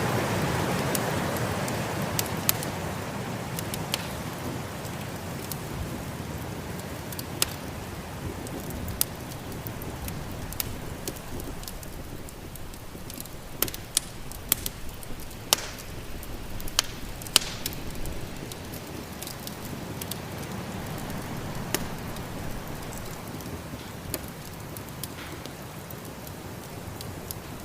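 Wood fire crackling in a fireplace, with scattered sharp pops and snaps, over the steady rush of a snowstorm wind that is strongest at the start and slowly eases off.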